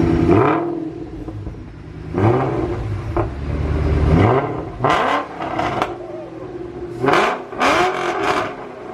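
Supercharged 5.2-litre V8 of a 2020 Shelby GT500, breathing through freshly installed American Racing headers, revved in several quick blips, each rising in pitch and dropping back to idle, with sharp crackles on the later blips. The tone is loud and deep.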